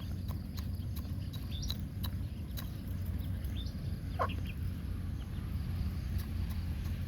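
Backyard chickens clucking with short calls, including one longer falling call about four seconds in. Scattered sharp clicks and a steady low rumble run underneath.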